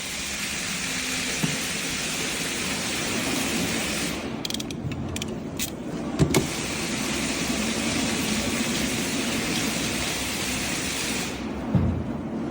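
A machine running with a steady hiss over a low hum, broken by a few sharp clicks about four to six seconds in, then cutting off suddenly near the end.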